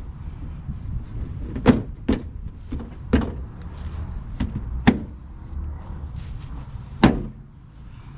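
Knocks and clunks of a car body part being forced back into place by hand: about five sharp knocks, the loudest about seven seconds in, over a low steady rumble.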